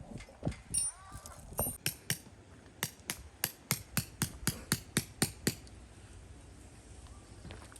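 A run of sharp knocks: a few spaced strikes, then about eleven quick, even ones at roughly four a second, which stop about five and a half seconds in.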